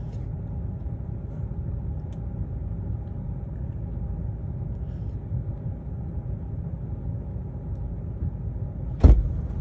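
Steady low rumble of a vehicle driving, heard muffled, with one sharp loud thump about nine seconds in.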